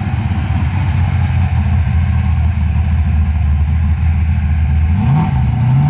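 Ford XT Falcon's engine idling loud and low with a pulsing beat, then a short rev near the end. It is a beefy sound.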